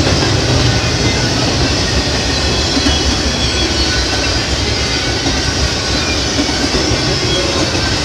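Double-stack intermodal freight train's well cars rolling past: a steady, loud rumble of steel wheels on rail.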